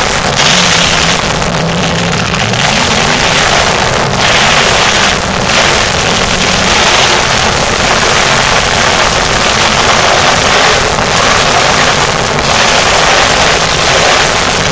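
Monster truck engine running hard at high revs, loud and steady, with a few brief dips in the noise.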